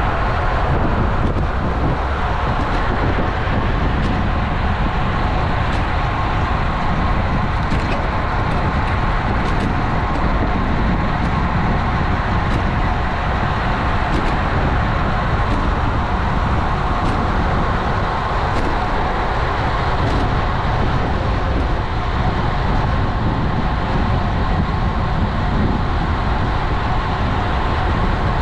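Steady rush of wind and road noise on a GoPro's microphone while riding a road bike, heaviest in the low end, with a few faint ticks in the middle.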